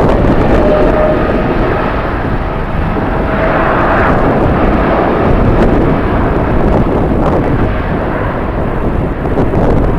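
Jet airliner engines running, with a faint steady whine in the first half, mixed with strong wind buffeting the microphone.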